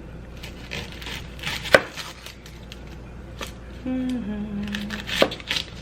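Knife cutting an onion on a cutting board: a few scattered knocks of the blade hitting the board, the loudest about two seconds in.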